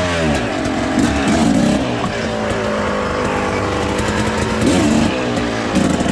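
Dirt bike engine running loud under throttle. Its pitch falls in the first half second, holds fairly steady through the middle, then rises and falls again near the end as the revs change.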